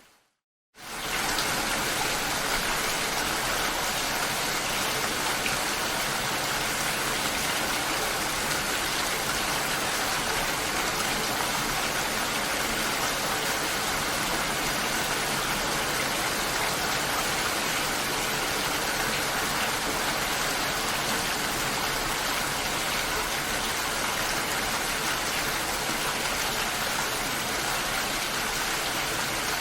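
Steady rain, an even hiss of falling water, coming in abruptly after a moment of silence right at the start.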